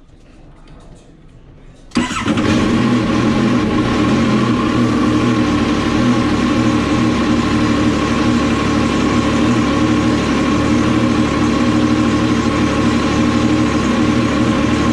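Yamaha TR-1 WaveRunner's three-cylinder four-stroke engine starts about two seconds in and runs at a steady, even idle. It holds running without bogging after new spark plugs, oil and filter, which the mechanic calls better.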